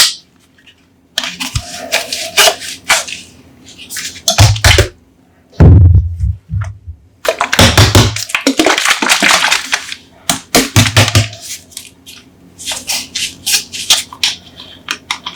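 Coca-Cola bottles being handled and opened: sharp clicks and scrapes, a few low thumps, and a burst of fizzing carbonation hiss lasting about three seconds midway.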